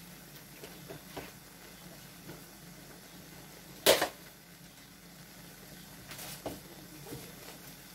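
Chicken and chicken liver frying quietly in an aluminium wok, with scattered faint crackles and one loud sharp pop a little under four seconds in.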